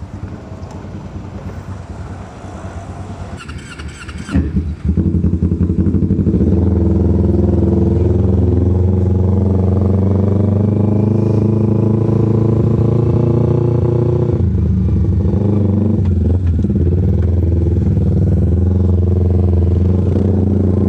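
Kawasaki Ninja 250R carburetted parallel-twin engine, first running quietly, then rising sharply about four seconds in to a loud, steady note as the bike rides off. There is a brief drop in the engine note about two-thirds of the way through.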